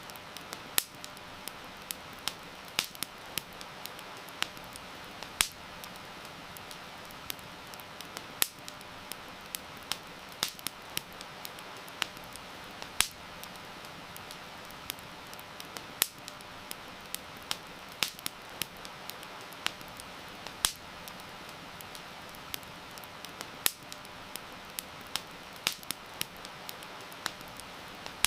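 Wood fire crackling, with sharp irregular pops about two a second, over a steady soft hiss of rain.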